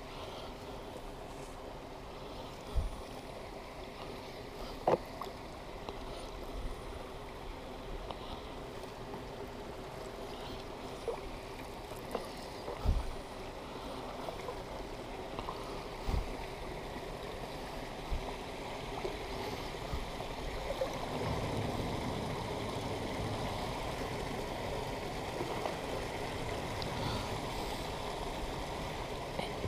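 Water lapping and trickling around a kayak, with a few short hollow knocks against the hull.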